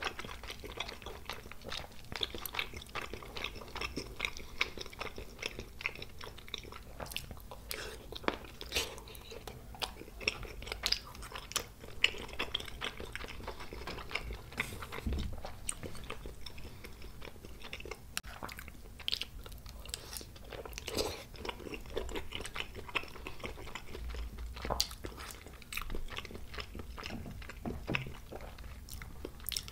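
Close-miked chewing of spicy tteokbokki (rice cakes and fish cake in sauce): wet mouth sounds with many irregular sharp clicks.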